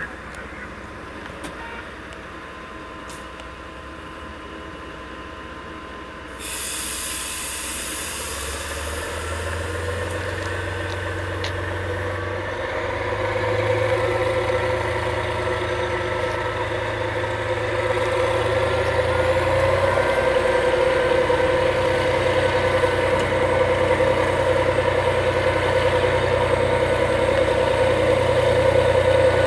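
Train at the station: the noise jumps suddenly about six seconds in, then a locomotive's drive runs with a deep hum that steps up twice and a faint whine rising in pitch, growing gradually louder.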